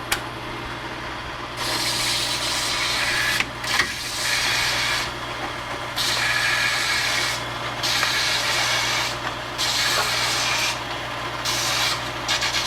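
A power tool runs with a steady hum, broken by about six stretches of rasping hiss, each a second or so long, as it works against metal.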